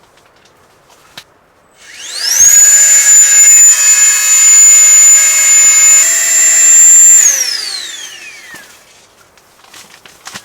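A small high-speed electric motor spins up with a rising whine, runs steadily for about five seconds, then winds down with a falling whine.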